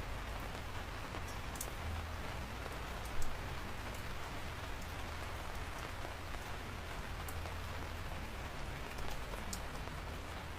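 Steady rain falling, with individual raindrops ticking and a low rumble underneath; one louder drop hits about three seconds in.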